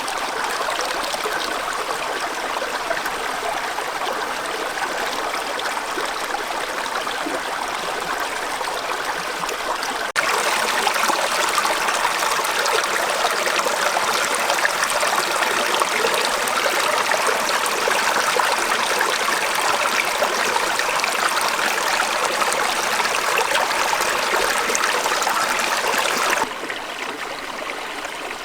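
Stream running, a steady rush of water that turns abruptly louder about a third of the way in and drops back down near the end.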